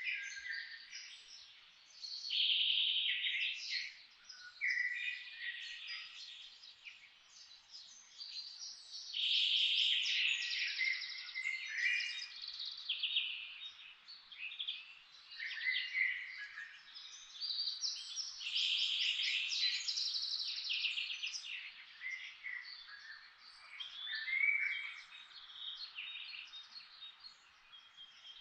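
Several songbirds singing and chirping at once, overlapping phrases of rapid trills and whistled notes coming and going every second or two, over a faint steady background hiss.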